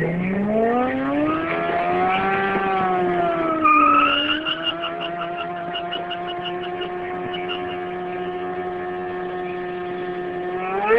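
Motorcycle engine revving up over the first couple of seconds, dipping briefly with a short louder burst, then held at steady revs for several seconds.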